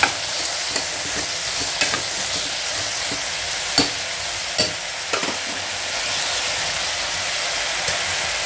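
Chopped bamboo shoots and green gram sizzling in hot oil in a metal pressure cooker pan, with a spoon stirring and scraping the pot; a few sharp knocks of the spoon on the metal, the loudest about halfway through.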